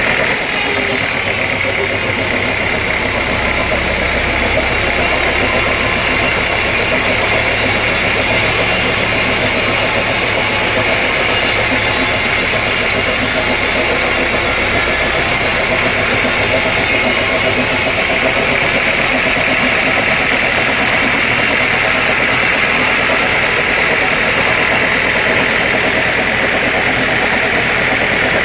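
Sawmill machinery running steadily, a loud continuous mechanical drone with a high hum and no breaks.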